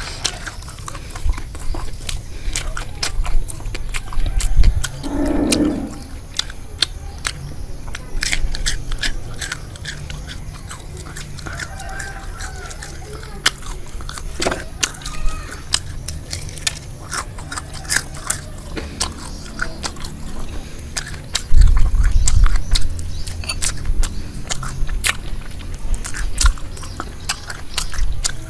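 Close-miked chewing and crunching of crispy deep-fried, batter-coated frog, with many short crackles as the pieces are torn and bitten. A brief hum of the voice comes about five seconds in, and a low thump and rumble at the microphone comes near the end.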